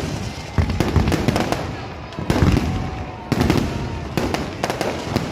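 Fireworks going off, a string of sharp bangs about once a second, each followed by a rumbling tail, with voices underneath.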